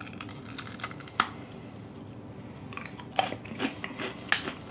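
A person biting into and chewing a hard snack: a sharp crunch about a second in, then a run of quieter crunches and clicks in the last second and a half.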